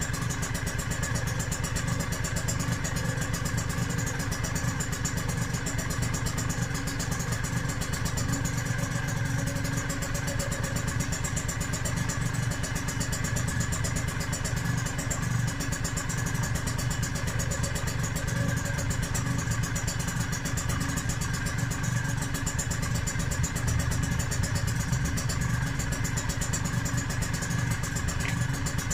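Yamaha DT125R's single-cylinder two-stroke engine, freshly rebuilt with its power valve fitted, idling steadily through a DEP expansion-chamber exhaust.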